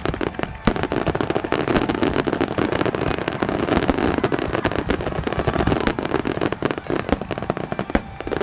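Dense barrage of aerial firework shells bursting in quick succession, the bangs overlapping many times a second over a continuous crackle of glittering stars, typical of a fireworks grand finale.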